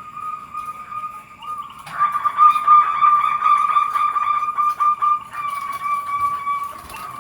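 Zebra doves (perkutut) cooing, a steady high coo that swells into a louder, rapidly pulsing stretch about two seconds in and eases off again near the five-second mark.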